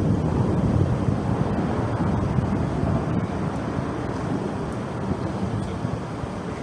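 Wind buffeting the microphone: a steady low rumble that eases off slightly toward the end.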